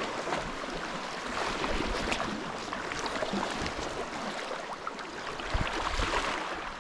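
Sea water splashing and lapping around a sea kayak, full of small splashes and drips, with a couple of low bumps about five and a half seconds in.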